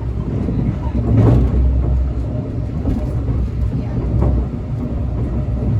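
Inside a Brightline passenger coach: a steady low rumble of the train running on the rails, with a few faint clicks.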